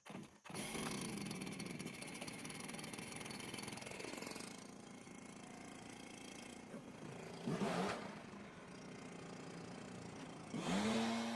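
Small petrol engine of lawn equipment starting about half a second in and running, its pitch swelling a couple of times, then revving up near the end and holding a steady high pitch.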